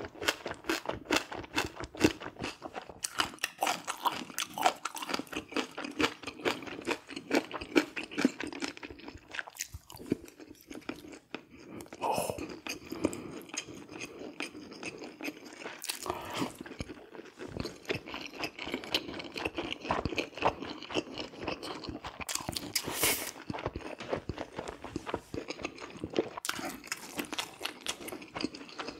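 A person eating braised red sea bream close to the microphone: steady chewing with many quick wet mouth clicks and smacks, broken by a few louder noisy bursts.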